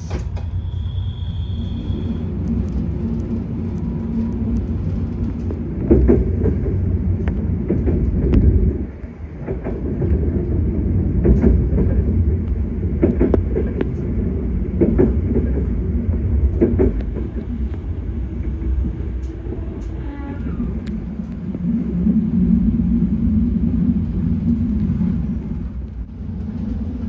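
Diesel-hauled passenger train running along the rails, heard from inside the coach: a steady low rumble of wheels on track with repeated short clicks. It swells for a couple of seconds, drops off sharply about nine seconds in, then returns.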